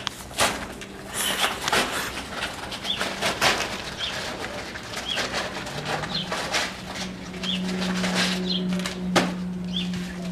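Small bird chirping, short high chirps about once a second, over scattered clicks and a low steady hum that comes in about six seconds in and grows louder.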